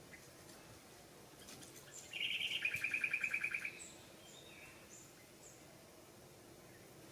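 A high animal call, a rapid pulsed trill lasting about a second and a half, starting about two seconds in, over faint repeated high chirps.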